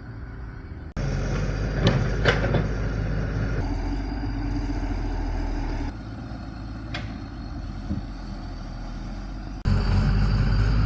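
An engine running steadily, heard in several cut-together stretches whose loudness jumps abruptly about a second in, near the middle and near the end. A few sharp knocks are heard about two seconds in and again around seven seconds.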